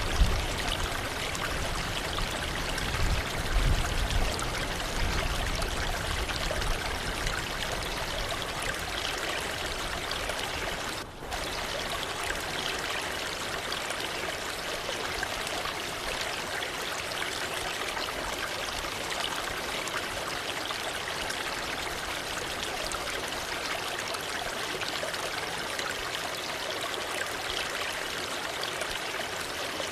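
Waterfall water rushing steadily, with some low rumbling in the first few seconds and a brief dip about eleven seconds in.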